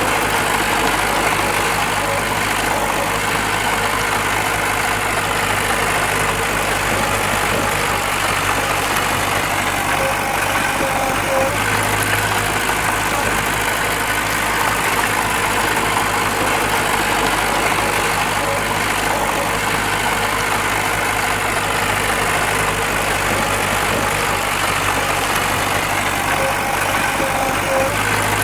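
Heavy diesel earthmoving engine running steadily, a bulldozer or dump truck working close by.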